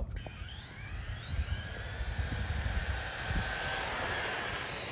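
Two electric RC short-course trucks, a Traxxas Long Travel Slash and a Losi 22 SCT 2.0 on 2S LiPo, accelerating from a standing start. Their motors whine up in pitch over the first couple of seconds, then hold a steady high whine as the trucks run off.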